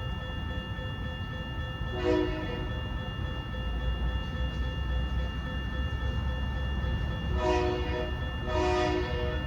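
Diesel freight locomotive's air horn sounding three short blasts, one about two seconds in and two close together near the end, over the low rumble of the locomotive's engine.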